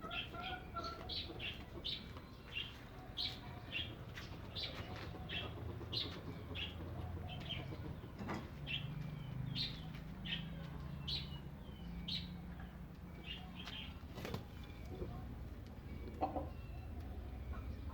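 Chicks peeping: short high chirps repeated about once or twice a second, with a hen clucking briefly at the start. Two sharp knocks, about eight seconds in and again near fourteen seconds.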